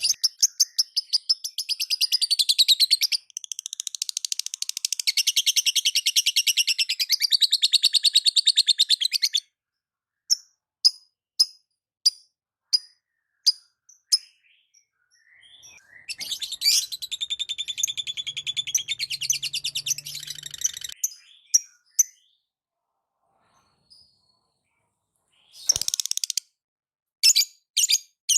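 Lovebirds (Agapornis) chattering in long, rapid strings of high, shrill chirps. About ten seconds in they give way to single sharp chirps spaced well apart, then another run of chatter, and a few last calls near the end.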